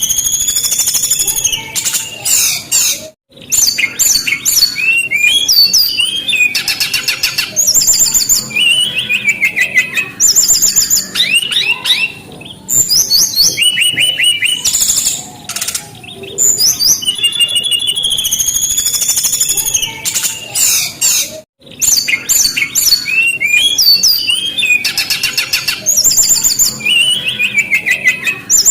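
Brown-chested jungle flycatcher (sikatan rimba dada coklat) in full, continuous song: fast strings of varied high whistles, sweeping notes and rapid trills, with two short breaks, about 3 seconds in and again about 21 seconds in.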